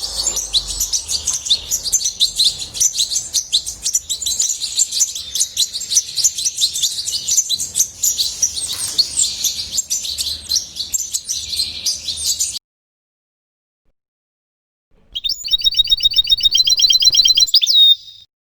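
European goldfinch singing: a long, fast, continuous twittering song that cuts off suddenly about two-thirds of the way in. After a few seconds of silence a short, very rapid, even trill follows for about three seconds.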